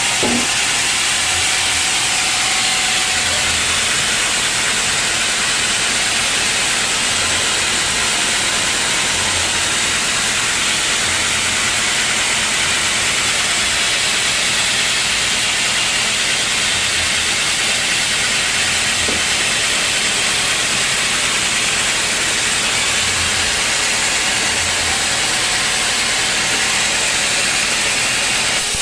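Sawmill saw running through a teak log: a steady, loud, high-pitched hiss of cutting that holds without a break.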